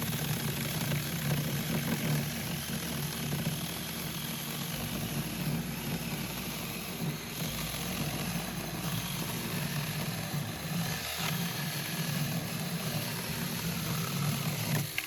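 24-volt battery-powered 6-inch mini chainsaw running steadily as it cuts wood.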